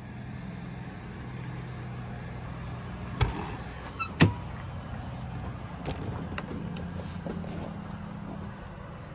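Steady low hum of an idling vehicle engine. Two sharp metallic knocks land about three and four seconds in, the second the loudest and ringing briefly.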